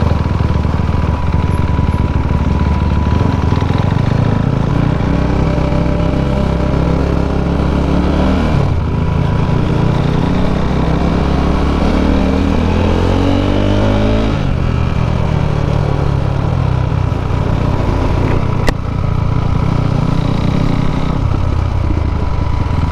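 KTM RC 390's single-cylinder engine through an Akrapovič exhaust, heard while riding. The revs climb for a couple of seconds, drop at a gear change, then climb again for about five seconds before dropping back into steadier running. There is a sharp click about three-quarters of the way through.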